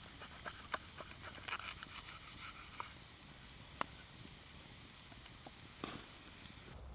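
Campfire crackling: irregular sharp pops and clicks over a steady faint hiss, a few louder pops scattered through.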